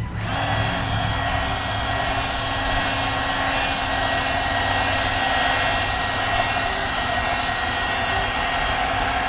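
Handheld hair dryer switched on and running steadily, a constant whir of motor and rushing air, blowing on a freshly sprayed headlight lens to speed the coat's drying.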